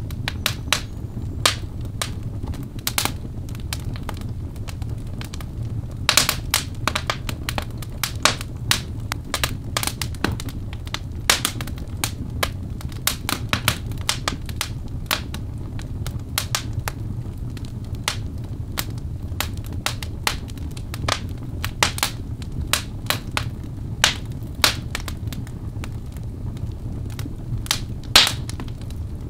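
Birch log fire crackling in a fireplace: irregular sharp pops and snaps over a steady low rumble of the flames.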